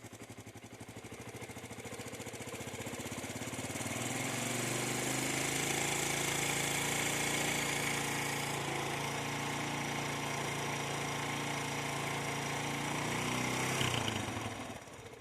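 SYM Wolf motorcycle engine revved up from idle, held at raised revs for about ten seconds, then let back down near the end. It runs with an abnormal noise that the owner is pointing out.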